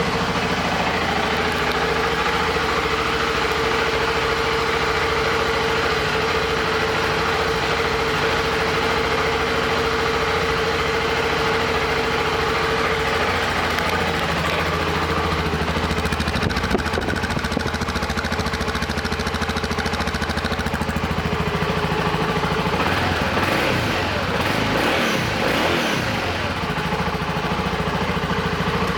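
2001 BMW F650GS's single-cylinder engine idling steadily just after being started.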